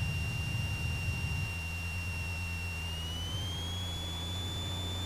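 Cessna 172 stall warning horn sounding a steady high whistle that steps up slightly in pitch about three seconds in, over the low drone of the engine: the aircraft is in slow flight near the stall.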